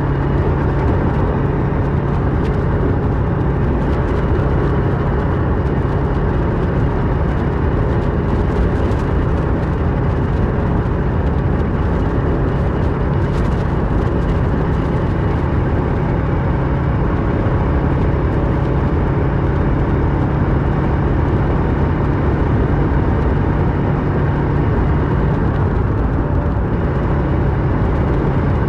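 Kawasaki Versys 650's parallel-twin engine through a MIVV slip-on exhaust, running at a steady speed with an even engine note and a constant rush of road and wind noise.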